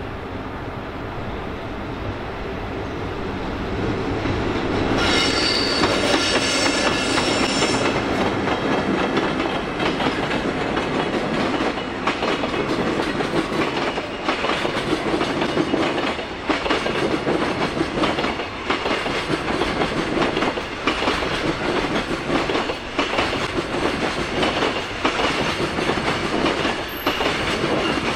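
A JR Freight EF65 electric locomotive and its long train of Koki container flatcars passing, the wheels clicking steadily over the rail joints. About five seconds in, as the train comes close, a high-pitched tone sounds for about three seconds.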